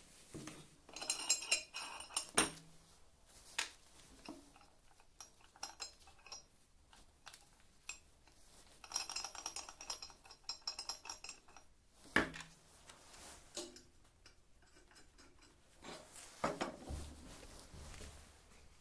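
Metal parts and tools clinking and knocking as they are handled, with scattered clicks and three short bursts of ringing metallic clatter.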